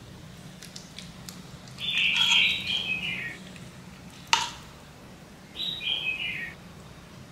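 A bird calling twice, each call a short run of notes stepping down in pitch, with a single sharp click between the calls.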